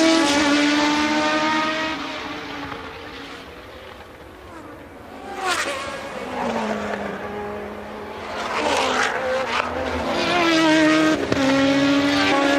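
1982 Formula One cars running at race speed. One car's high-revving engine note fades as it pulls away, then engines grow louder again as cars approach and rise to full loudness near the end.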